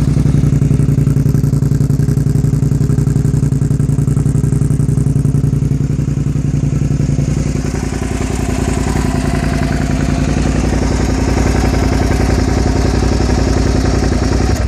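Suzuki SV650N's 645 cc V-twin running steadily and loud through an Ixil exhaust with the dB killer removed, easing off slightly about eight seconds in.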